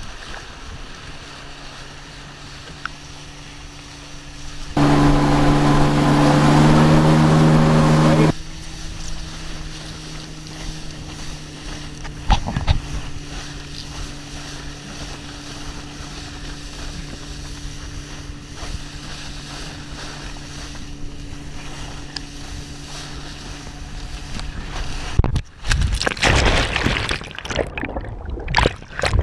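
Tow boat engine running at a low steady hum, then opening up loudly for about three and a half seconds, its pitch stepping up, as the throttle is given to pull a wakeboarder out of the water. It drops back to a steady hum, and near the end a rough rush of water and wind noise comes in.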